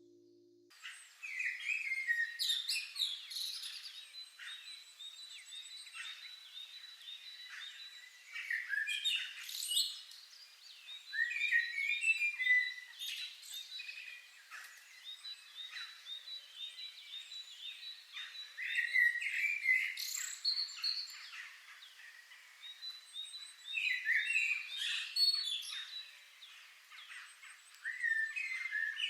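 Several songbirds chirping and singing at once in dense, overlapping quick calls and trills, starting just under a second in and swelling in louder clusters every few seconds.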